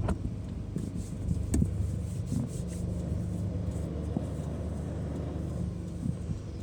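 Steady low engine rumble with a faint, even hum underneath.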